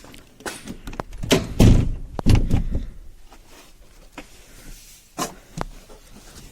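Car door of a Škoda Felicia pickup being opened and shut, with heavy thumps a little over a second in and a few sharp clicks later. The engine is not yet running.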